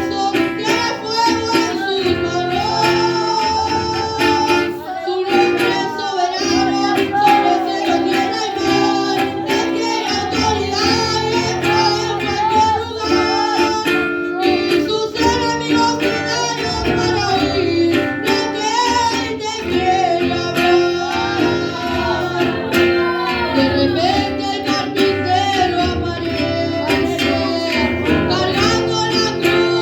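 A voice singing a song over plucked guitar accompaniment.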